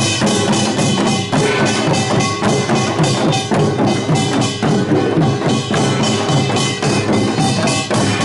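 Korean pungmul percussion band playing live: metal gongs clanging over drums in a fast, steady beat.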